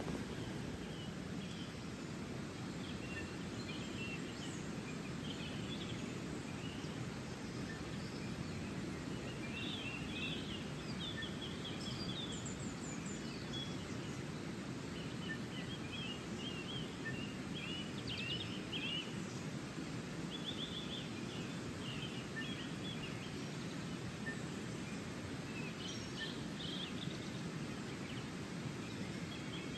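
Small birds chirping and twittering in short, scattered phrases over a steady low rush of running water.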